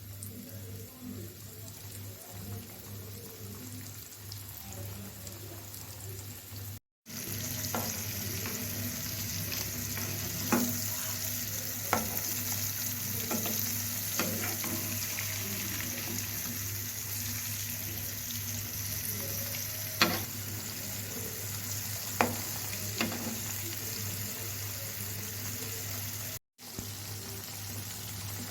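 Chicken frying in hot oil: a steady sizzle, with a few sharp clicks over the middle stretch. The sound cuts out briefly twice.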